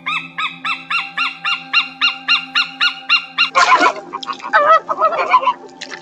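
Bird calls: a fast run of repeated calls, about four a second, for some three and a half seconds, then a harsh burst and wavering honking calls.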